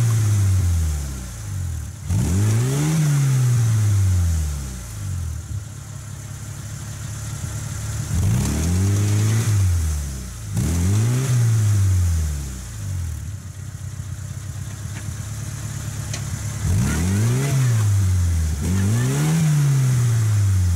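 Lada Niva 4x4's four-cylinder engine revved hard about six times, each rev rising and falling over a second or two with short lulls between. The car is stuck, bottomed out in deep mud, and cannot drive out.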